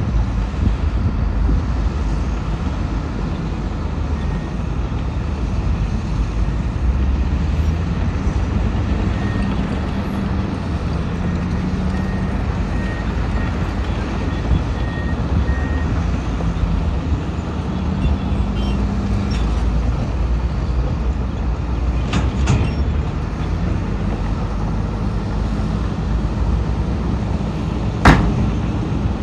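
Heavy diesel earthmoving machinery running steadily under load, its engine pitch shifting as it works. Faint repeated short beeps sound for several seconds midway, and a sharp loud knock comes near the end.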